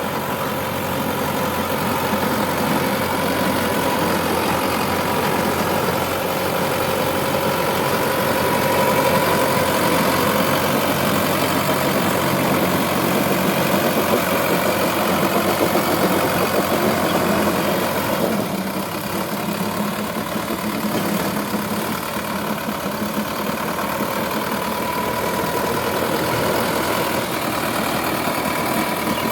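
Sonalika 750 DI tractor's diesel engine running steadily, with an even, continuous engine note.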